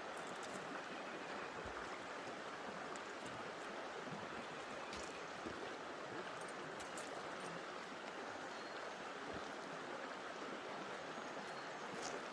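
A creek running steadily: an even rush of flowing water.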